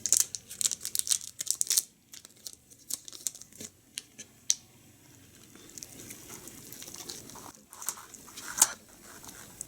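Crinkling and tearing of a thin wrapper, a condom packet being torn open and handled: a dense run of crackles for about two seconds, then scattered sharp crinkles.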